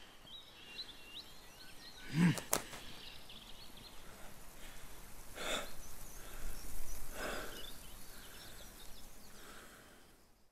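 A man breathing heavily: a short sharp exhale about two seconds in, then two long sighs a couple of seconds apart. Behind them is forest ambience with small birds chirping. It all fades out at the end.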